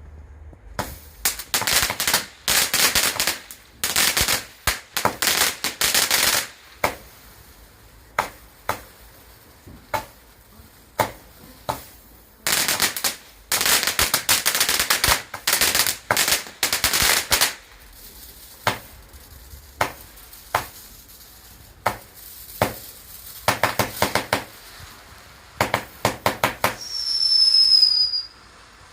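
Fireworks going off: bursts of rapid, sharp crackling cracks, some clusters lasting a few seconds, with single bangs in between. A short whistle sounds near the end.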